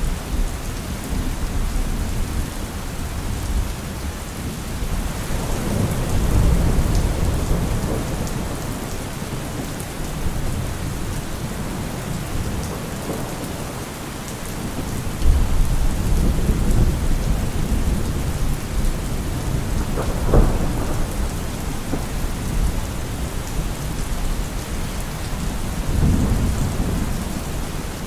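Heavy rain falling steadily, with thunder rumbling low and swelling several times, and one sharper thunderclap about twenty seconds in.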